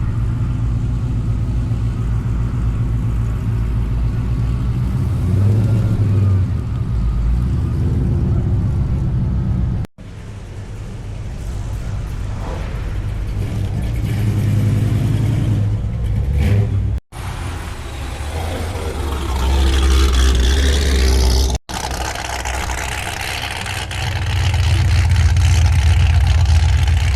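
Car engines idling with a low rumble and revving up in places, in several short clips joined by abrupt cuts.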